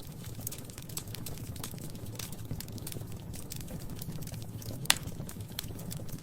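Wood fire crackling in a fireplace: irregular snaps and pops over a steady low rumble, with one sharp, louder pop about five seconds in.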